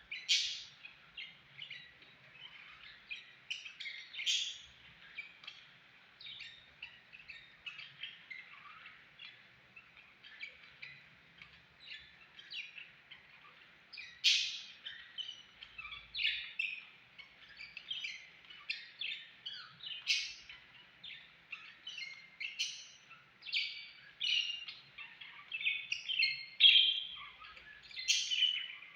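Pet parrots chirping and chattering, a steady stream of short, high chirps with a few louder calls now and then.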